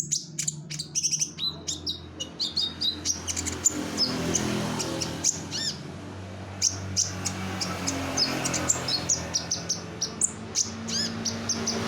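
A kolibri ninja (Konin) sunbird singing: a fast, continuous stream of high chips, trills and quick rising and falling whistles, over a steady low hum.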